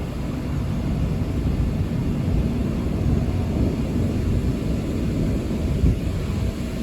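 Low, steady rumble of rolling thunder during a severe thunderstorm, with a small knock near the end.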